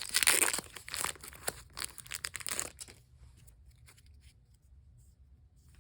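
A foil Pokémon card booster pack being torn open, the wrapper crackling and crinkling, loudest at the first rip and stopping about three seconds in.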